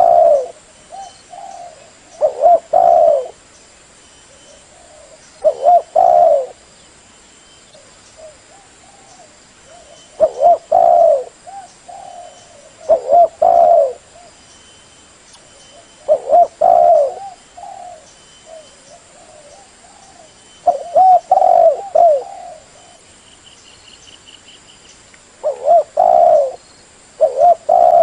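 Spotted dove cooing: its short phrase of several coos repeats every few seconds, about nine times, with softer coos in between. This is the decoy call used to lure wild spotted doves.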